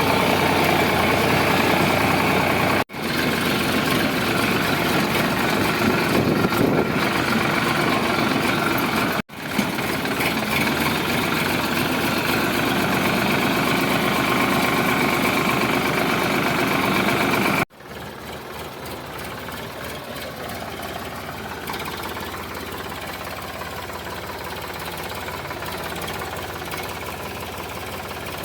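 Tractor diesel engine running steadily, heard in several joined shots that cut off abruptly about 3, 9 and 18 seconds in. After the last cut it is quieter.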